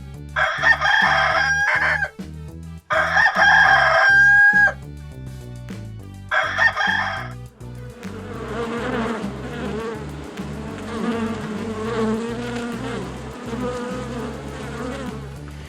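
A rooster crowing three times, the last crow shorter, then a steady insect buzz over the second half. Background music with a low beat plays under both.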